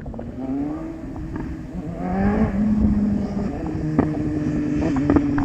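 BMW S1000RR inline-four engine and exhaust accelerating: the note rises in pitch and grows louder over the first couple of seconds, then holds a steady drone. A few sharp cracks come near the end.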